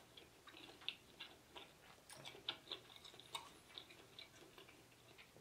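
Faint mouth sounds of chewing soft lobster meat close to the microphone: irregular small clicks and smacks, a few a second.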